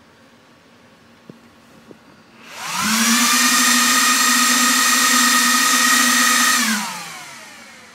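HP DL360 G5 server's cooling fans spinning up to full speed with a rising whine, running steadily for about four seconds, then winding down as the server switches itself off again: the fault where it powers on and off on its own. Two faint clicks come shortly before the spin-up.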